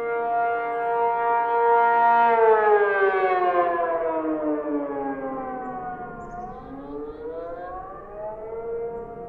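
Tornado warning siren (civil defense siren) wailing. It holds a steady tone, then glides down in pitch for about four seconds and rises back to the steady tone near the end.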